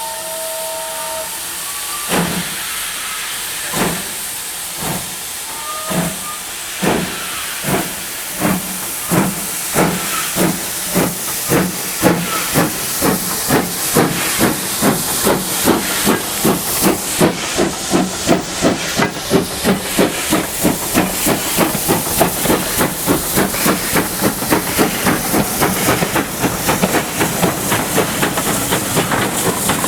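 Steam locomotive starting away from a stand amid a steady hiss of steam, after a brief whistle in the first second. Its exhaust beats start slow, about a second apart, and quicken steadily to several a second as the train gathers speed.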